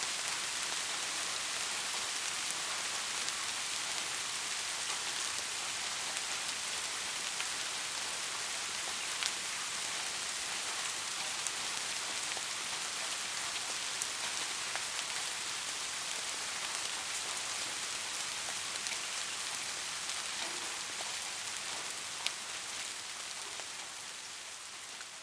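Steady rain falling, a dense even hiss with a few distinct drops ticking now and then. It fades down near the end.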